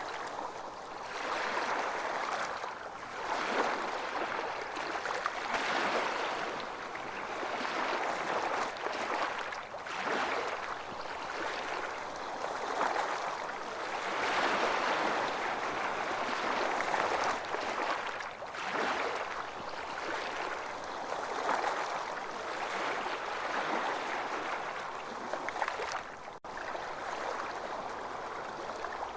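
Ocean waves washing onto a sandy beach, the surf noise swelling and easing every few seconds. A very brief break in the sound comes near the end.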